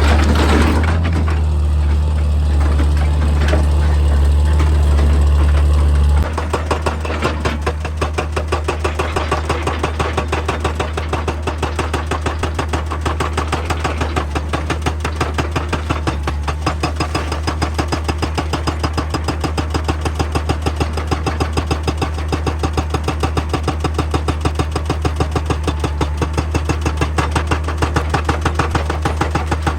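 Excavator engine running with a steady low hum, then about six seconds in a hydraulic rock breaker starts hammering: a fast, even train of sharp blows that carries on over the engine.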